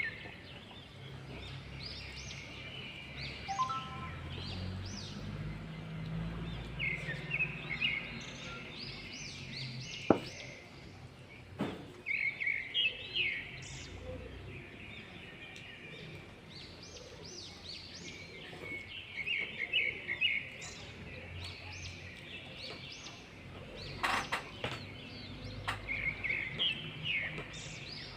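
Small birds chirping in repeated quick bursts of high notes. A few sharp clicks stand out, one about ten seconds in, another a couple of seconds later and a cluster near the end.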